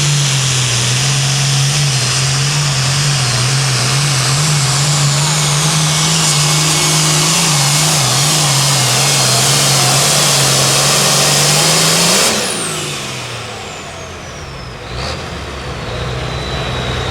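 Turbocharged diesel super farm pulling tractor running flat out under load. About twelve seconds in, the throttle is cut: the engine drops back sharply and a high turbo whistle falls away, then it settles to a lower steady run.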